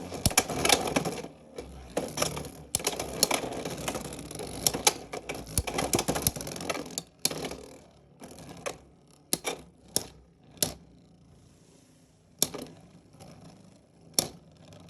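Beyblade X spinning tops battling in a plastic stadium. For about the first seven seconds there is dense rattling and scraping with many sharp clacks as they collide. After that come scattered single sharp clacks of hits over a quieter spin.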